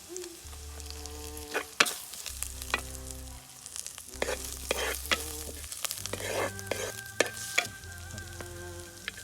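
Food frying and sizzling in a pan, with a spoon stirring and scraping against the pan in sharp clicks now and then, over soft background music.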